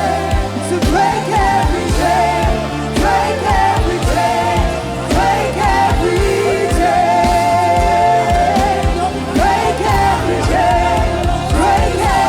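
Live worship music: a melodic vocal line sliding between notes over a bass and a steady drum beat.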